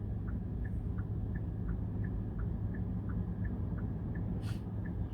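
Steady low road-and-engine rumble inside a car, with the turn-signal indicator relay ticking evenly about three times a second in an alternating two-note tick-tock. A short hiss comes about four and a half seconds in.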